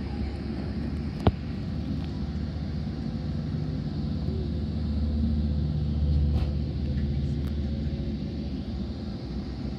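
Low, steady rumble of a Metrolink commuter train pulling out of a station, heard from inside a passenger coach, swelling a little about five to six seconds in as a locomotive goes by alongside. A single sharp click sounds about a second in.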